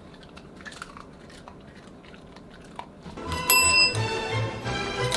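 Faint chewing with small scattered clicks. About three seconds in, louder background music starts, with bell-like chimes over a pulsing bass beat.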